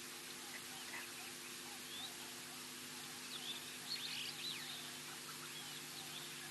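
Wild birds chirping and whistling, many short calls throughout and busiest around the middle, over a steady hiss and a faint low electrical hum.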